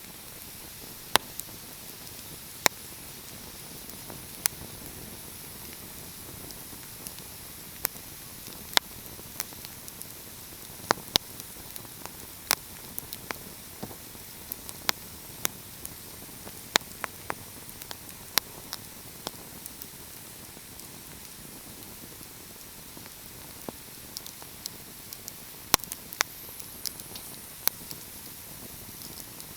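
Wood fire crackling: sharp, irregular pops and snaps, several clustered together at times, over a steady soft hiss.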